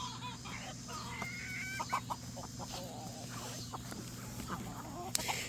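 A flock of chickens clucking and calling in short, scattered calls over a steady low hum.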